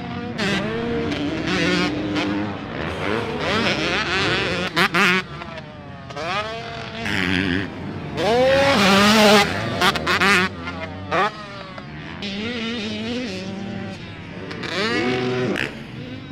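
Motocross dirt bike engines revving hard and easing off in turn, their pitch climbing and falling again and again as the bikes ride the track.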